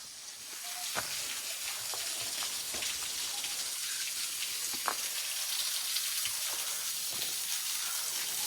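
Waterfall splashing: a steady hiss of falling water that grows louder over the first couple of seconds, with a few sharp taps.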